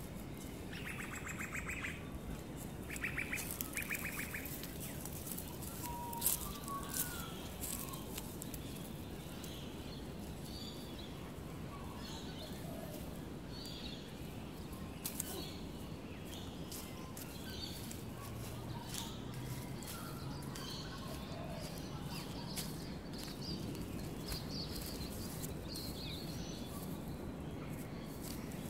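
Wild birds chirping and calling, with three short rapid buzzy trills in the first few seconds, over steady outdoor background noise and scattered sharp clicks.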